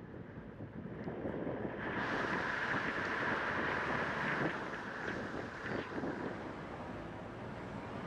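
Vehicle driving along a road, a steady rushing of road and wind noise that swells about a second in and eases after the middle.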